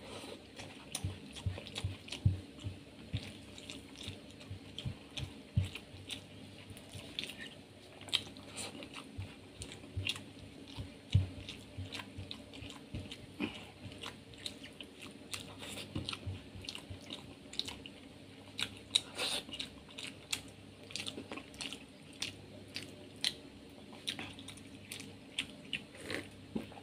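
Close-up chewing and wet mouth smacks of a person eating rice and curry by hand: many short, irregular clicks and smacks, a few of them louder.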